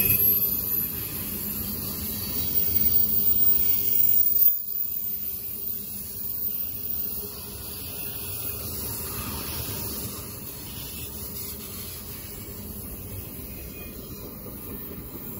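A CSX double-stack container freight train rolling past, with a steady noise of wheels on the rails. It is louder for the first four or five seconds, then drops suddenly and stays lower.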